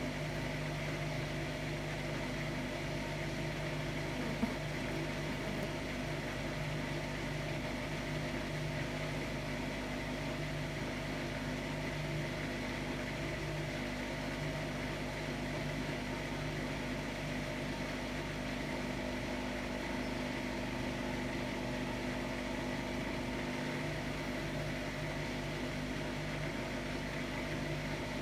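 Hotpoint-Ariston AQD972F washer-dryer, with a brushless inverter motor, running steadily through its program: a constant hum with several steady tones. There is a single small click about four seconds in.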